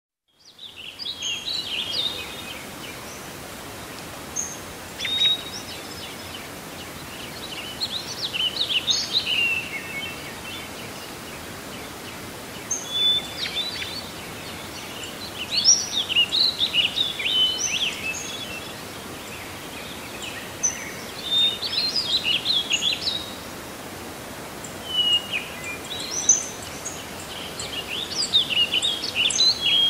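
Bird song: quick chirping phrases that come in bouts every few seconds, over a steady background of noise.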